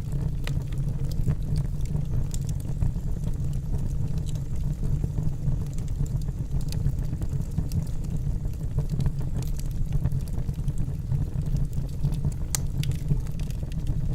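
Wood fire burning in a fireplace: a steady low rumble of the flames with scattered small crackles of the logs, and one sharper pop near the end.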